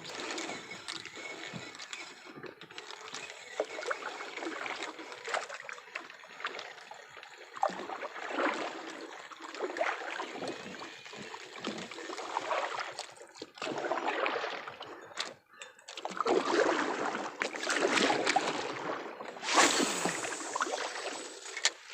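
Water swishing and splashing around a small boat being paddled, in repeated swells every couple of seconds, with scattered knocks and one sharper splash near the end.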